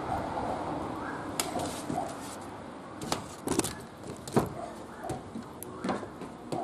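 Irregular sharp knocks and clicks, about half a dozen, over a steady background hiss.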